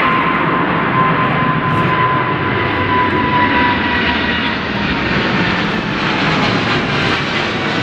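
Jet airliner's engines passing, a loud steady rush with a whine that slowly falls in pitch.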